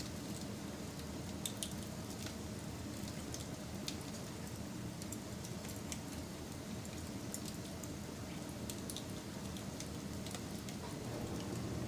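Wood fire burning: a steady low rumble with scattered sharp crackles and pops of burning wood.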